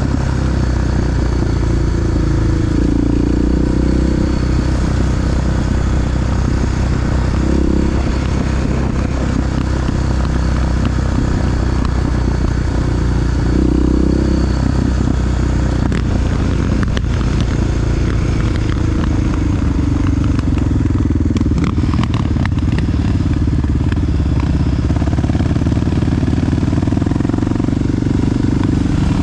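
Honda XR dual-sport motorcycle's big single-cylinder four-stroke engine running under way, the engine note lifting briefly a few times with the throttle.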